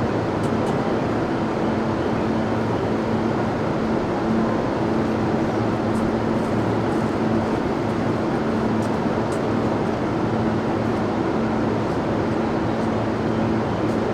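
Interior running noise of a JR East E233-8000 series electric train: steady wheel-on-rail rolling noise with a constant low hum, with no rise or fall in pitch.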